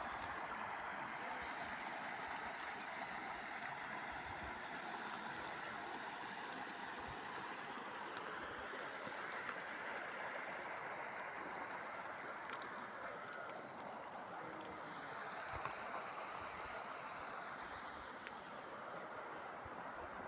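Steady rushing of flowing water, like a stream, with a few faint ticks.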